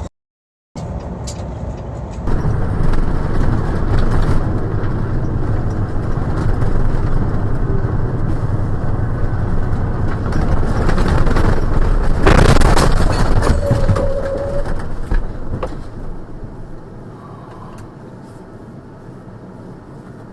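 Dashcam audio of vehicle engine and road noise, building to its loudest with a harsh, noisy burst about twelve seconds in, a short steady tone soon after, then dropping to a quieter rumble.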